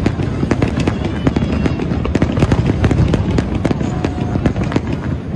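A dense barrage of aerial firework shells bursting. Deep booms and sharp cracks follow one another several times a second with no pause, over a continuous rumble.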